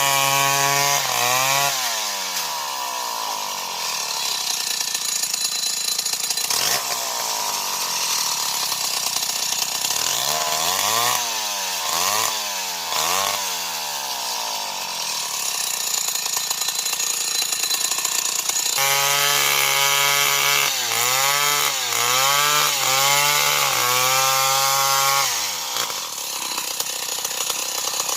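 Old Stihl 070 two-stroke chainsaw cutting into a tree. Its engine sits at high revs, then drops in pitch and labours as the chain bites into the wood, with the revs sagging and picking up again several times. About two-thirds of the way in it runs free at high revs briefly, then dips repeatedly and bogs down again near the end.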